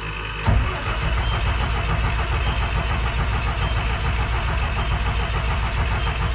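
Starter cranking the 5.9 Cummins diesel of a 1994 Ford F700 in a steady pulsing rhythm, the cold engine hard to start and not yet catching. It gets louder about half a second in.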